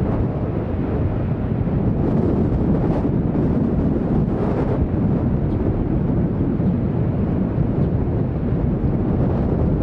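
Jet engines of a United Boeing 757-300 airliner on its landing approach, a steady rumble, mixed with gusty wind buffeting the microphone.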